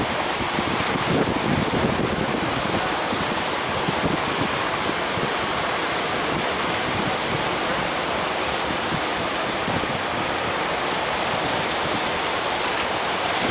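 Big ocean waves breaking as surf, a steady loud rush of water, with some wind on the microphone adding low rumbling gusts in the first couple of seconds.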